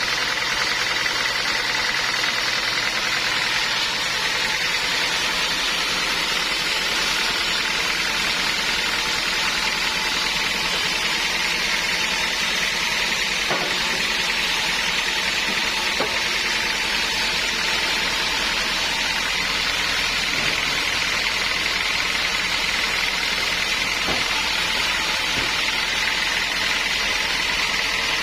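Sawmill machinery running steadily: a constant dense whirring with a steady high tone through it, and a few faint knocks.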